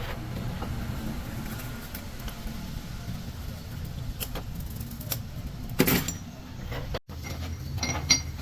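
Metal parts clinking and knocking as gearbox pieces are handled, with a louder clank about six seconds in and a short ringing metallic strike near the end, over a steady low rumble.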